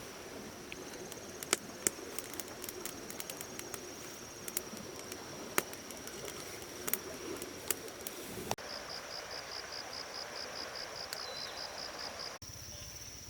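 Forest insects trilling steadily on one high tone, with scattered sharp clicks over the first part. After an abrupt cut about two-thirds of the way in, the insect sound turns into evenly pulsed chirps, about four a second, before another abrupt cut near the end.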